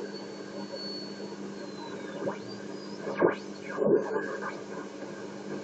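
Shortwave radio static and hum from a regenerative TRF receiver between stations. A high heterodyne whistle glides down and then up as a carrier is tuned through, and two brief bursts of sound come about three and four seconds in.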